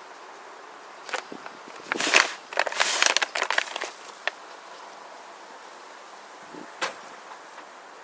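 Handling noises: a series of short rustles, clicks and rattles, busiest from about two to four seconds in, with a single click near the end.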